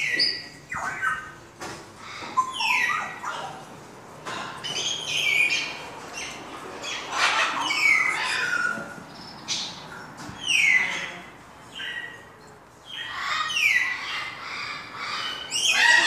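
Caged birds squawking and calling: many short, harsh calls, each dropping sharply in pitch, coming one after another and sometimes overlapping.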